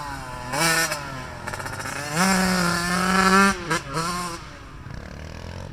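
Small single-cylinder off-road engine revving up and down, holding a steady higher pitch for about a second in the middle, then dropping away and fading near the end.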